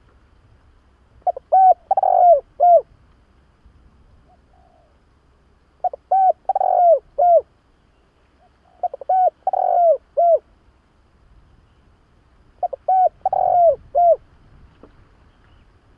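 Spotted dove cooing: four phrases, each a quick run of four or five coo notes, repeated every three to four seconds.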